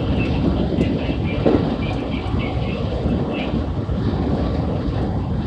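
Running noise inside a JR West 223 series electric train at speed: a steady rumble of wheels on rail, with faint high tones in the first couple of seconds.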